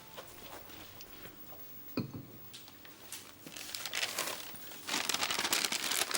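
Wrapping being crumpled and rustled, louder in the second half, with a single knock about two seconds in.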